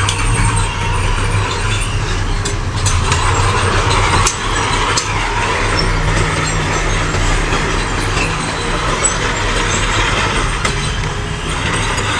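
Diesel engine of heavy earthmoving machinery running steadily, with a few sharp clanks.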